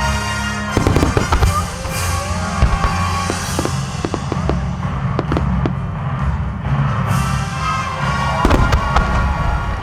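Aerial firework shells bursting in quick succession: many sharp booms and crackles from about a second in, over music playing throughout.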